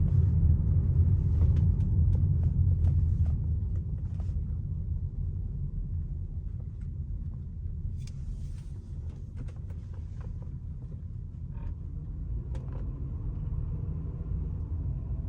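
2004 Lexus GS300 running: a steady low rumble that eases off about four seconds in, with scattered light clicks and creaks.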